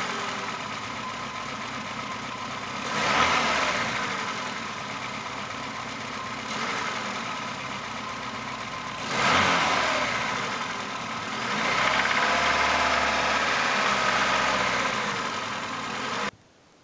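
Car engine running, revved up and back down twice and then held at higher revs for a few seconds before the sound cuts off near the end. The alternator drive belt, rubbed with pine rosin so it grips the pulleys, is not squealing.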